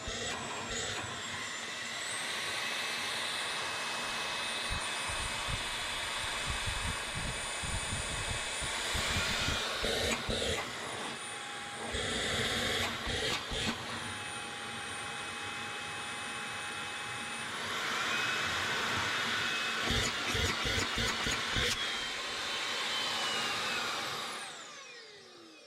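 LG CordZero A9 cordless stick vacuum motor running with a high whine, its pitch stepping up and down a few times, with bursts of clattering partway through and again later, then winding down with a falling whine near the end. It is a test run after the motor and bin assembly had been washed with water, and it runs normally.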